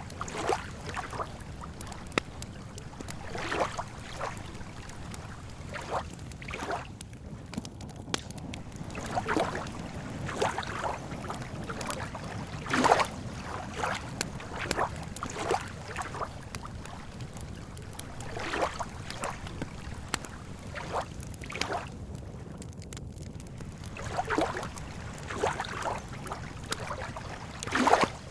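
Small waves lapping at a lake shore: irregular soft splashes every second or so, a louder one about halfway through and another near the end, over a steady low rumble of wind.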